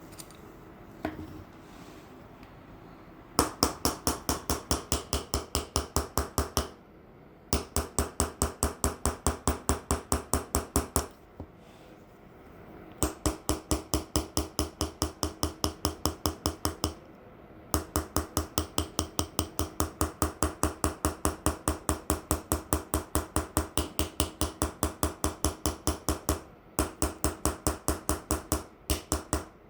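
Hand engraving on a metal plate: a small hammer tapping an engraving chisel in quick, even runs of about six taps a second, with short pauses between runs. Each tap leaves the plate ringing briefly.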